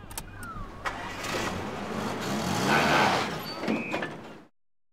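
Ute engine revving as the vehicle pulls away, after a few clicks at the start. The engine swells and falls, loudest about three seconds in, and the sound cuts off suddenly near the end.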